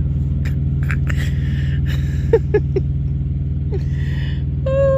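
Semi-truck's diesel engine idling steadily with a low, even pulsing hum. A few short clicks come about two and a half seconds in, and a short falling cry is heard near the end.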